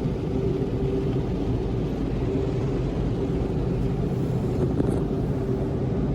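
Car wash machinery running: a steady hum over a low rumble.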